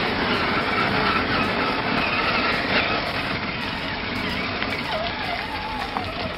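Electric motor and drivetrain of a Redcat Gen8 Scout II RC crawler whining as it drives, the pitch wavering with the throttle and dipping and rising about five seconds in.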